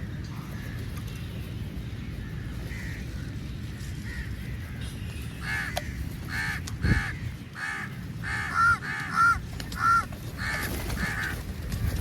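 Crows cawing: a few faint caws, then from about five seconds in a quick run of about ten loud, harsh caws, over a steady low rumble.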